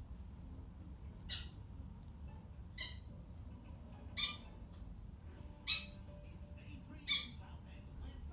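Pet bird squawking: five short, sharp calls about a second and a half apart, the later ones louder.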